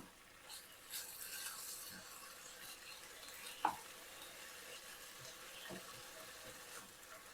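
Chicken sizzling faintly in a skillet, with a utensil stirring and tapping against the pan now and then; one sharper clack about three and a half seconds in.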